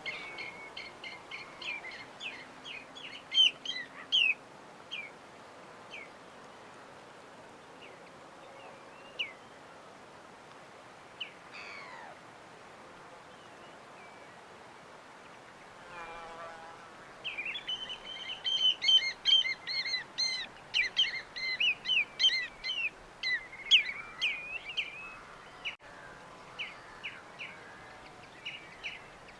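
Small birds chirping and twittering in quick, high-pitched bursts over a faint steady background. There is a flurry at the start, a few scattered calls, then a denser run of chirping in the second half.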